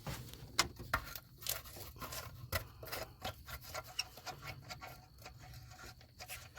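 Hand tools working on a truck engine's bolts and brackets: a run of irregular light clicks and ticks with some scraping.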